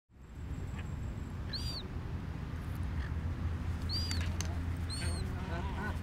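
A bird calling: three short, high, arching squeaks about a second and a half, four and five seconds in, then a run of lower, quicker calls starting near the end. A steady low rumble runs underneath.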